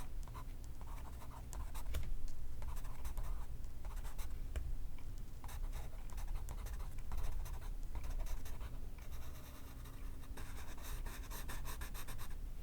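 Pencil writing on paper: short scratchy strokes in uneven bursts with brief pauses, turning into a quick run of rapid strokes near the end.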